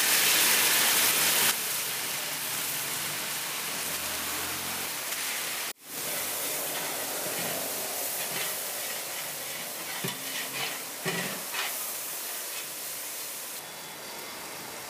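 Fresh mint and coriander leaves sizzling in hot oil and golden-fried onions in a large aluminium biryani pot as they are stirred in with a long metal spatula. The sizzle is loudest for the first second or so, then settles into a steady hiss, with a few brief knocks of the spatula against the pot later on.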